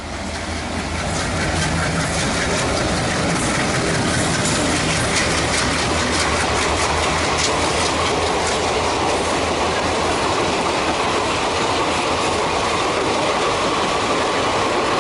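Passenger train passing close by, its wheels clattering over the rail joints in a steady, loud rumble. The sound swells over the first two seconds as the train arrives.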